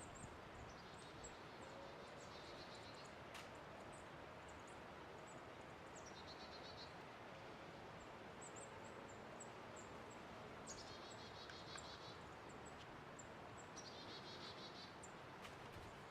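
Quiet woods with a faint steady hiss. Small birds give high, thin chips throughout and, every few seconds, a short rapid trill lasting about a second.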